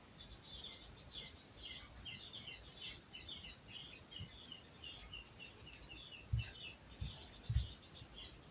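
Small birds chirping: many short, high chirps overlapping without pause. A few dull low thumps come in the second half.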